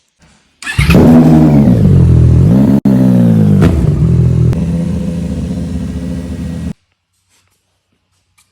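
Yamaha MT-09 SP's inline three-cylinder engine revved in a couple of blips, then settling to a steady idle, through its exhaust. The sound starts and cuts off abruptly.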